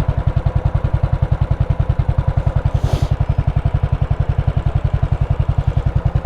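Royal Enfield Classic 500's single-cylinder engine idling, an even run of rapid low thumps at a steady pace. A brief hiss comes about three seconds in.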